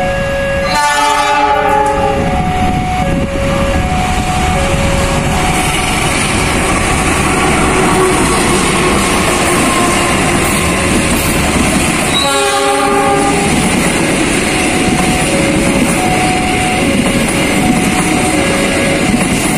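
Diesel-hauled KAI passenger train passing close by: a steady rumble of the locomotive and coaches running over the rails and switches, with a short horn blast about a second in and another about twelve seconds in. A repeating two-tone chime sounds throughout.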